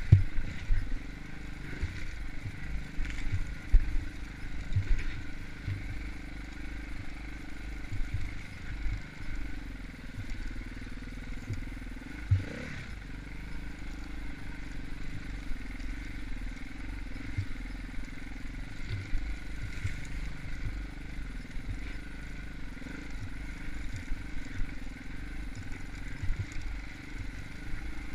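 Dirt bike engine running at a fairly steady pitch while riding, with frequent irregular low thumps and knocks.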